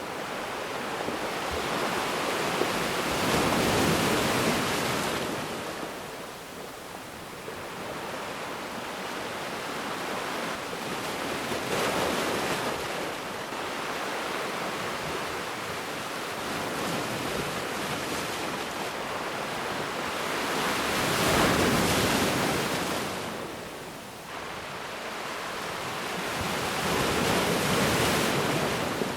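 Ocean waves breaking and washing up on a beach: a steady surf hiss that swells into four louder surges, each rising and falling away over a few seconds.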